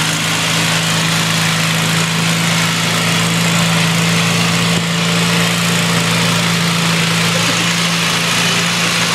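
Lawn tractor engines running steadily at an even speed.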